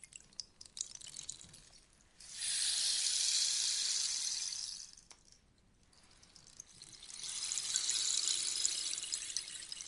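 Rainstick tipped over twice, its pellets trickling down through the tube with a rain-like patter. The first pour starts sharply about two seconds in and dies away about five seconds in; the second builds slowly from about six and a half seconds and tapers off near the end.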